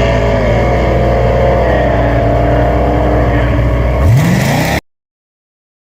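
Drag race car engine running with a steady deep drone, then revving up about four seconds in before the sound cuts off abruptly into silence.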